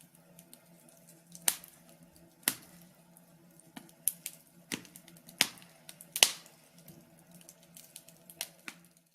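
Fireplace fire crackling: sharp, irregular pops and snaps a second or so apart over a faint steady low hum.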